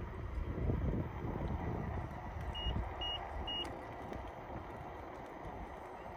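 Wind on the microphone and rolling noise from an InMotion E20 electric unicycle riding on pavement, the rumble stronger in the first few seconds. Near the middle come three short, evenly spaced high beeps, about half a second apart.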